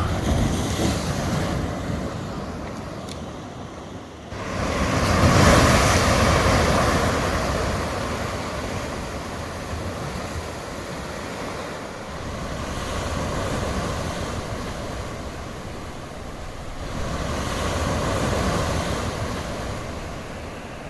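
Heavy ocean surf of waves about two metres high breaking on a rocky shore: a big wave crashes in suddenly about four seconds in and washes back over several seconds, followed by two smaller surges later on.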